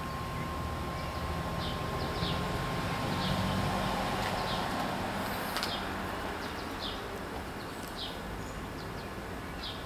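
Outdoor ambience: a bird chirping in short, falling notes about once a second over a steady low rumble.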